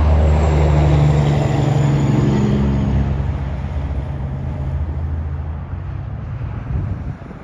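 Diesel locomotive engine running under load, a deep steady drone that fades away over the last few seconds as the locomotive moves off.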